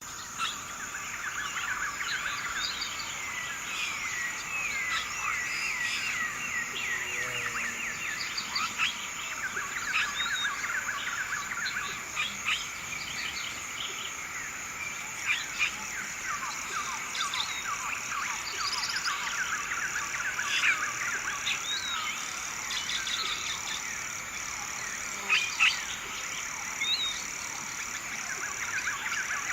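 Birds chorusing: many overlapping chirps, calls and fast falling trills, with a few louder single calls standing out. A steady high-pitched hiss runs underneath.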